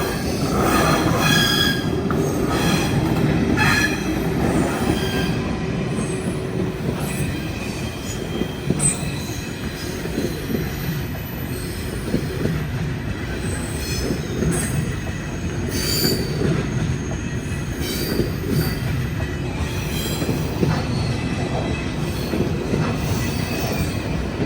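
KTX train running through a level crossing: a continuous rumble of wheels on rail. High tones ring over it in the first few seconds, and scattered clicks from the wheels crossing joints come later.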